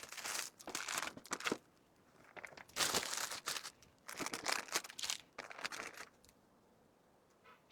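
Packaging crinkling and rustling as items are handled and packed, in several bursts that stop about six seconds in.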